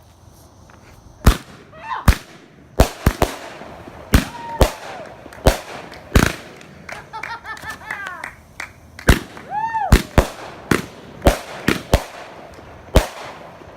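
Fireworks going off in an irregular string of sharp bangs and pops, about twenty in all, with a few short whistling tones in between.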